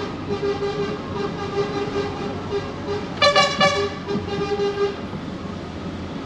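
Lorry engine running steadily on the move, with two short air-horn toots about three seconds in.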